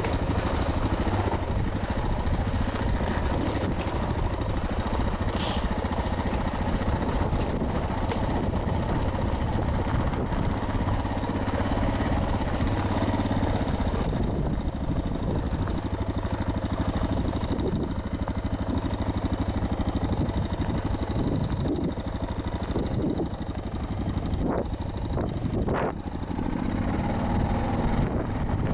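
Suzuki DR650 dual-sport motorcycle's single-cylinder four-stroke engine running under load up a hill climb, its note rising near the end. Loud wind noise on the camera microphone.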